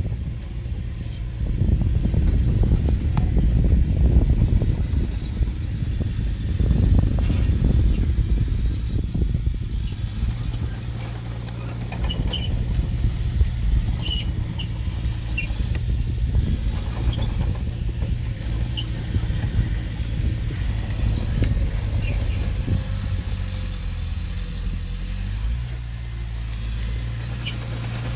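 Heavy-equipment diesel engine running under load, rough and uneven at first, then settling to a steadier note about halfway through. Scattered short high squeaks and clicks run over it.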